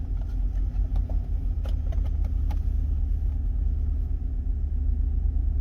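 Two SKAR ZVX 18-inch subwoofers in a ported box, driven by an SKV2 3500.1 amplifier, playing a heavy, steady deep bass, with a few light clicks over it.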